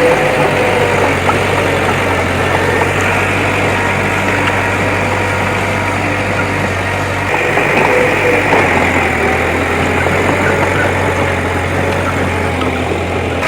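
Diesel engine of heavy earthmoving machinery running steadily, at an even level with no sharp knocks.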